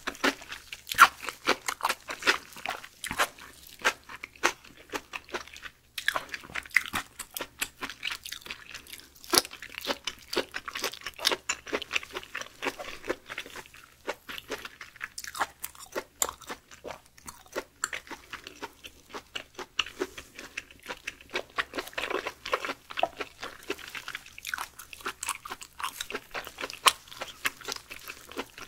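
Close-miked eating of raw beef skirt (chimasal): chewing with a dense run of crisp clicks and wet mouth noises, alongside strips of the raw meat being torn apart by hand.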